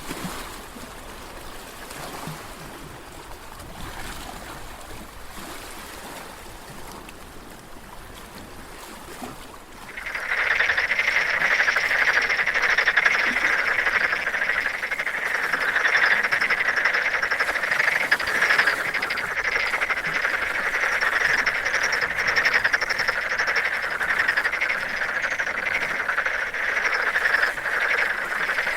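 Soft water lapping, then about ten seconds in a dense chorus of frogs croaking starts abruptly and carries on loud and steady, as a fast, rattling trill.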